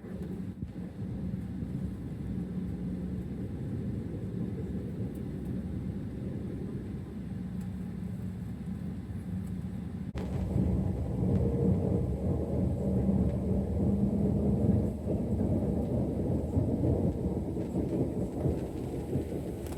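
Cabin noise aboard an Embraer E190 airliner before takeoff: a steady low rumble of the engines and airframe with a faint hum, getting noticeably louder about halfway through.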